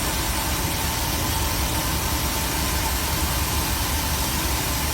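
Compressed air and water blasting out of an air compressor tank's open drain valve as a steady hiss over a low rumble. A lot of water is coming out: the tank has not been drained in a long time.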